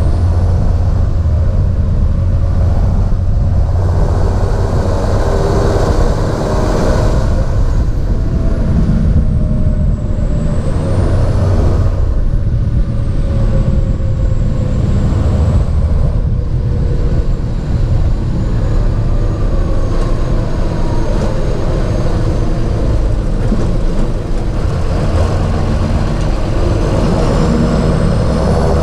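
John Deere 7430 Premium tractor's six-cylinder diesel engine running steadily under way, a deep, even drone. A faint high whine dips and rises several times over it.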